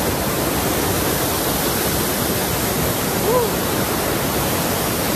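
Waterfall on a river, its falling water making a steady, unbroken rush.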